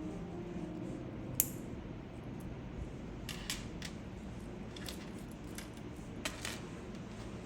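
Scattered small, sharp clicks and taps of keyboard parts being handled during a build. The sharpest click comes about a second and a half in, a little cluster follows a couple of seconds later, and a pair comes near the end.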